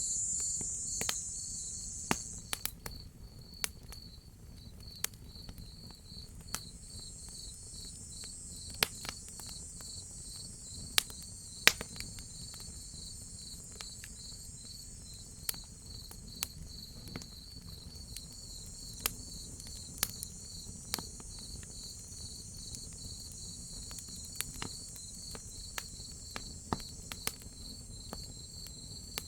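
Crickets chirping in a steady pulsed rhythm, with a higher insect buzz that is loud at first and fades within the first few seconds. Sharp, irregular crackles and pops of a wood fire sound throughout over a low steady rumble.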